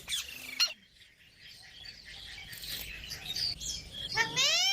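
Pet parrot chirping and chattering in high notes, with a sharp call at the start and a louder call rising in pitch near the end.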